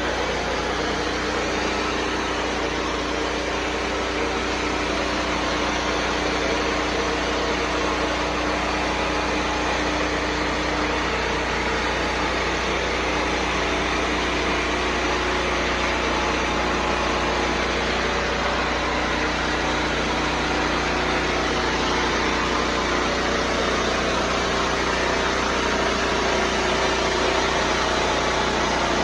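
Small engine running steadily under an even hiss, with no change in speed.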